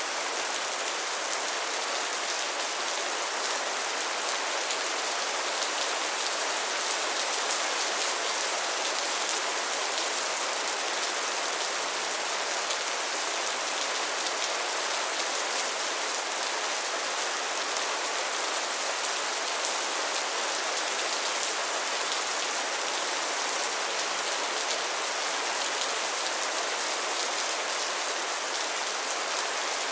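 Steady rain falling and pattering on surfaces, a constant even hiss of many drops with no thunder.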